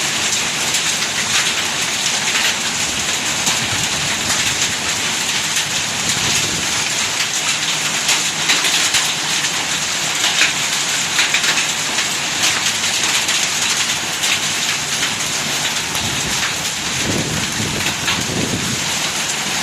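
Heavy hailstorm with rain: a dense, steady pelting of hailstones and rain, with many sharp individual impacts standing out through it.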